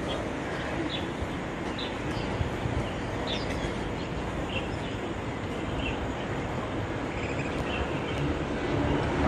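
A small bird giving short, high chirps, repeated about once a second, over a steady low rumbling background noise.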